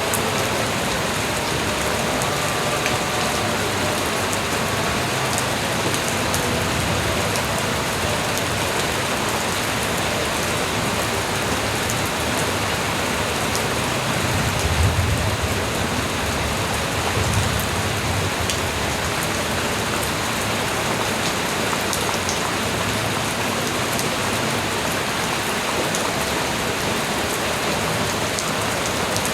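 Steady light rain falling, a constant even hiss, with two brief low rumbles about halfway through.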